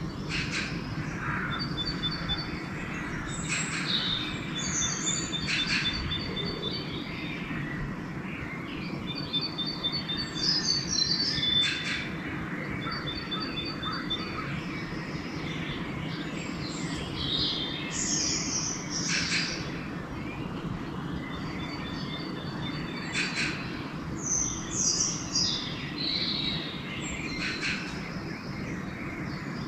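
Dawn chorus of several songbirds calling and singing, with one bird repeating a short rapid trill every few seconds, over a steady low background hum.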